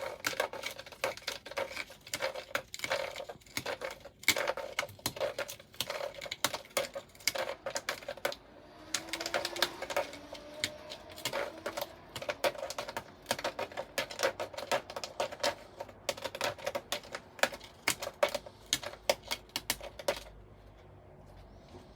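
Cat's claws scratching a board in fast, rapid strokes like typing, stopping suddenly near the end.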